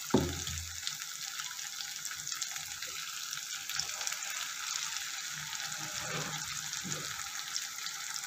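Onion-tomato masala sizzling steadily in hot ghee in a kadai as wet raw chicken pieces are dropped in by hand. A soft thump comes just after the start, and fainter knocks follow later.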